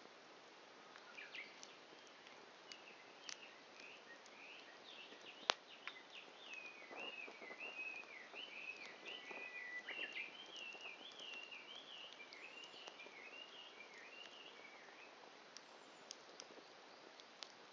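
Faint wood fire crackling with scattered sharp pops, one louder pop about five seconds in. A songbird sings a long, rapid warbling song over it through the middle.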